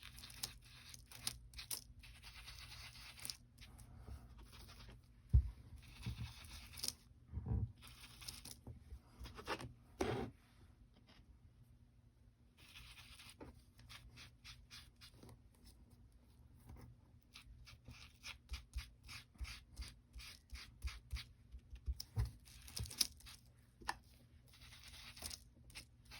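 Scratchy rubbing and scraping of crafting tools on cardstock, with a few knocks in the first half, a lull in the middle, and fast, dense scratching strokes near the end.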